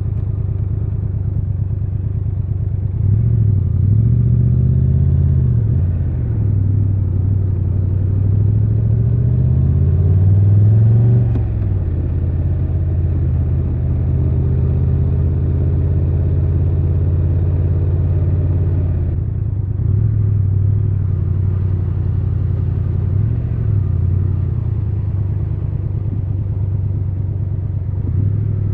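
Triumph Tiger 1200 Rally Pro's three-cylinder engine under way, revving up twice in the first half, with a sudden drop in pitch after the second rise, then running steadily and easing off about two-thirds of the way through.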